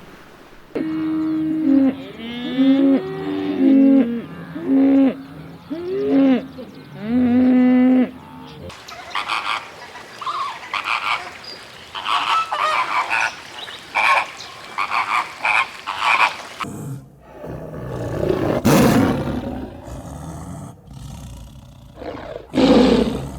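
A series of different animal calls: clear whistle-like calls that glide up and down in pitch for the first several seconds, then noisier, chattering repeated calls, then low, rough roar-like calls in the last part.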